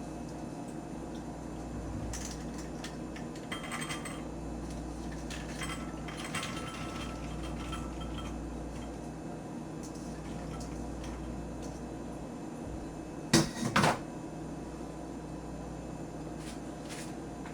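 Kitchen handling sounds over a steady low hum: light clicks and clatter as a microwavable mug of soaked soybeans is handled on a food scale, then two sharp knocks close together about 13 seconds in.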